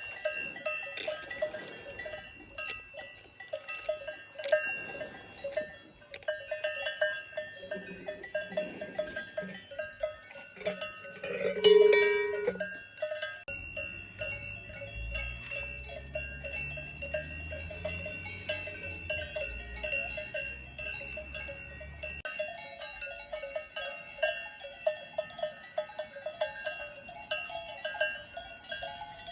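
Many cowbells on a herd of livestock clanking and ringing irregularly without pause. One louder sound stands out about twelve seconds in, and a low rumble runs underneath for several seconds in the middle.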